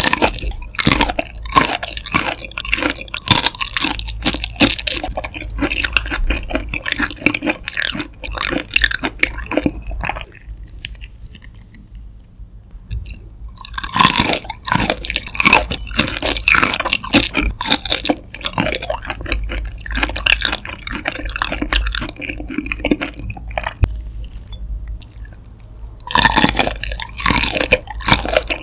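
Close-miked chewing of raw peeled shrimp: dense, quick clicking mouth sounds in three loud bouts, each beginning with a bite, about 13 seconds apart, with quieter chewing between them.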